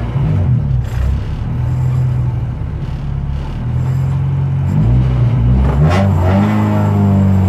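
Honda race car's engine heard from inside the cockpit while the car stands still, running at uneven, wavering revs. About five seconds in it rises and then holds at a steady, raised speed.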